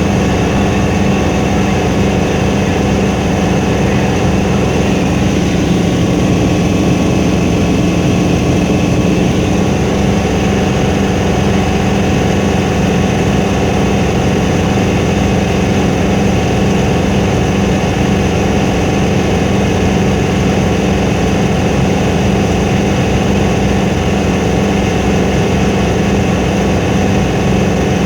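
Helicopter engine and rotor drone, loud and steady with a strong low hum and several steady tones above it, heard from inside the cabin.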